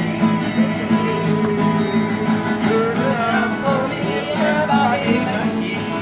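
A small group playing cheerful live music: strummed acoustic guitar with a singing melody over a steady low accompaniment.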